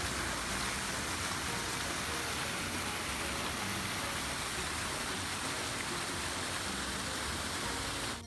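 Steady rushing noise with no pitch or rhythm, starting and stopping abruptly.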